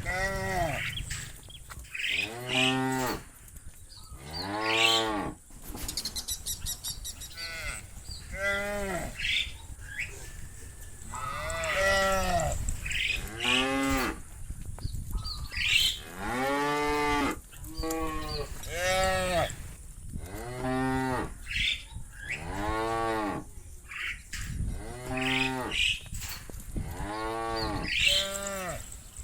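Several cows mooing one after another, a new call every second or two, some overlapping. Each moo rises and then falls in pitch, and the calls come at a few different pitches.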